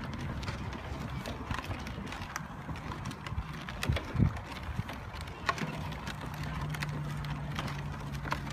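Ride-on tractor rolling, with irregular clattering clicks and knocks; a low steady hum comes in about five and a half seconds in.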